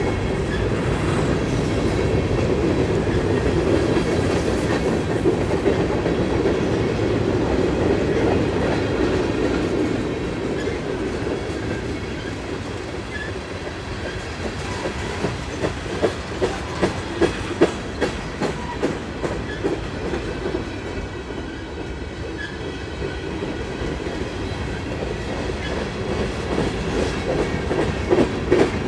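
Union Pacific manifest freight train rolling past, its cars making a steady rumble, with the clickety-clack of wheels over rail joints growing distinct in the second half.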